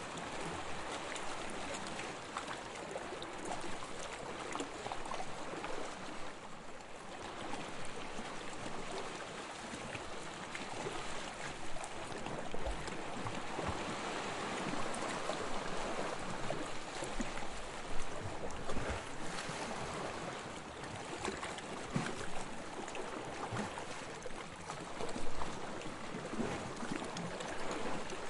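Small waves lapping on a sandy shore: a continuous wash of water that swells and eases as each wave runs in and drains back, with fizzing and a few louder splashes.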